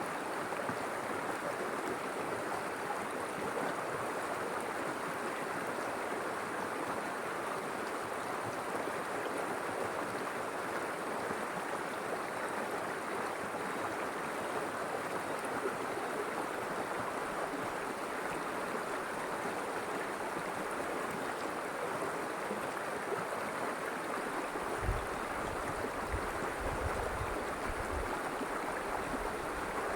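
River water flowing, a steady, even rushing. A few short low rumbles come in near the end.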